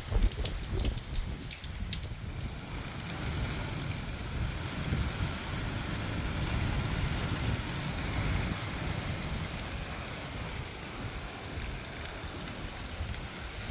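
Steady heavy rain with wind rumbling on the microphone, and a patch of sharp crackling clicks in the first two seconds.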